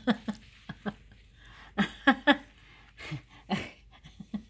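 A dog making a series of short, pitched vocal sounds in play, each lasting a fraction of a second, scattered through the few seconds with the loudest near the middle.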